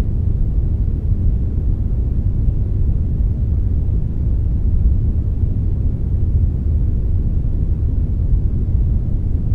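Synthetic "brownish" noise, brown noise blended with white noise: a steady, deep, even rushing hiss, heaviest in the low end, with no change or events.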